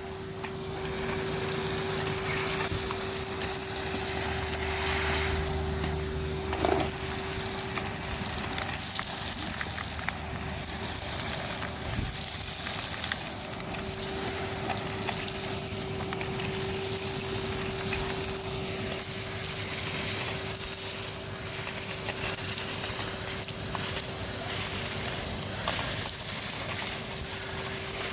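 Henry HVR 200-22 canister vacuum cleaner running steadily with a constant motor hum, while grit and debris crackle and crunch as they are sucked up the hose.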